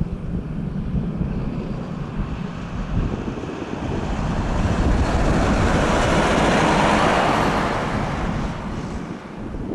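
Jet noise from Kawasaki T-4 trainers passing overhead. It builds to a loud peak about five to seven seconds in, with a thin high whine rising near the peak, then fades, over a low rumble throughout.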